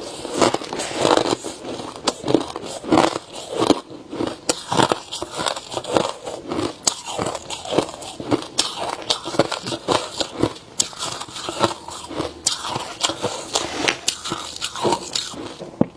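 A person biting and chewing ice: a continuous run of crisp crunches and cracks, several a second.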